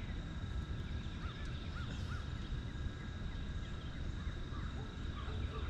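Outdoor ambience: a steady low rumble with a few short bird chirps, three quick arched notes a little over a second in.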